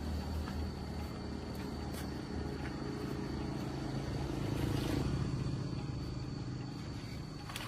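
Steady low motor rumble that gets a little louder about five seconds in, with a faint steady high whine above it.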